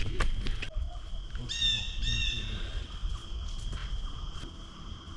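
Steady high drone of crickets in the forest. A few sharp knocks come in the first second, then two short, high, slightly falling calls about half a second apart.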